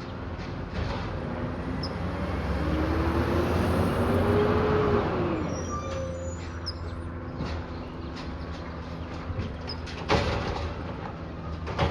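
Peterbilt 320 garbage truck's diesel engine running, swelling up for a few seconds with a whine that rises and then falls as the hydraulic arm works, then a sharp bang about ten seconds in.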